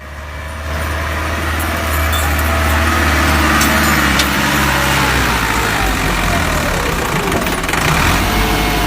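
Massey Ferguson diesel tractor engine running steadily with a low, even hum, swelling over the first second and then holding.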